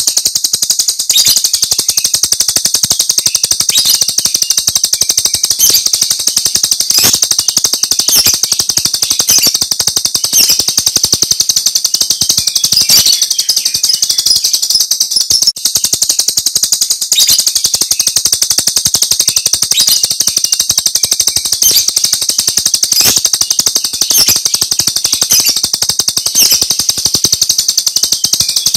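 Jalak Rio starling giving its rapid, high-pitched 'tembakan' (shooting) call as a continuous dense chatter, with sharp strokes roughly once a second.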